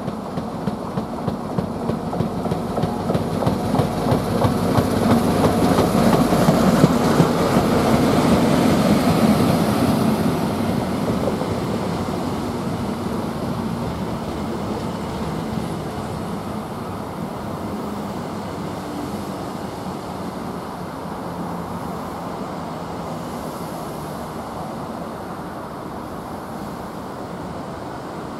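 A First Great Western HST, a Class 43 diesel power car leading Mark 3 coaches, passing close by along the platform. The noise builds to its loudest several seconds in as the power car goes by, with a rhythmic wheel clatter. It then settles to a steadier rumble as the coaches roll past.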